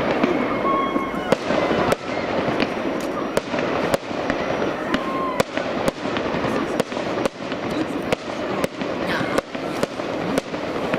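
Aerial fireworks shells bursting in sharp, irregular bangs, roughly two a second.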